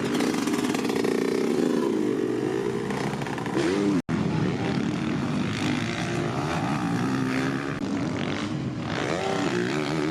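Dirt bike engines running and revving, the pitch rising and falling, with a sudden momentary break about four seconds in.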